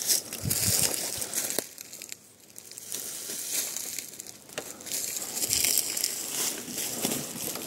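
Dry leaves and undergrowth rustling and crunching, with irregular crackles and snaps of twigs.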